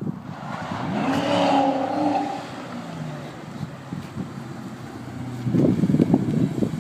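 Audi B6 S4's 4.2-litre V8 through a custom 2.5-inch cat-delete exhaust, rising in pitch as it accelerates about a second in, then a spell of uneven low rumbling near the end.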